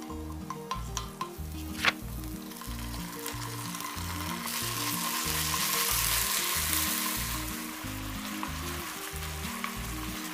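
Chopped leek and onion sizzling in oil in a stainless steel frying pan, stirred with a wooden spatula that clicks against the pan a few times in the first two seconds; the sizzle swells for a few seconds midway, with the jjajang black bean sauce in the pan. Background music with a steady beat underneath.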